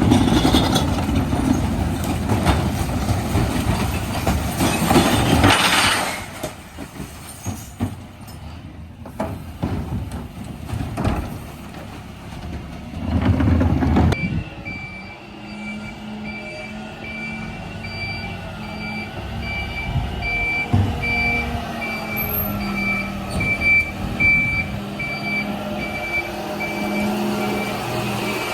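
Dennis Elite 6 refuse truck working: loud mechanical noise from the truck at first, then from about halfway through its reversing alarm beeps steadily at an even rate over the running diesel engine.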